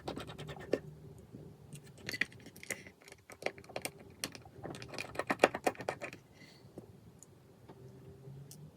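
Rapid small clicks, taps and light metallic clinks of precision tools and tiny parts working inside an opened iPhone 5s, bunched in two busy flurries about two and five seconds in.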